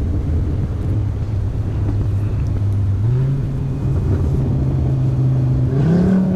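Audi RS3's turbocharged five-cylinder engine on an open downpipe, running at a steady note that jumps up in pitch twice, about halfway through and near the end.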